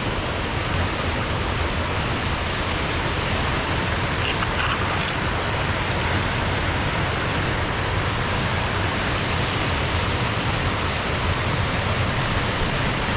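Waterfall, water cascading down fast and powerful: a steady, unbroken rush of water.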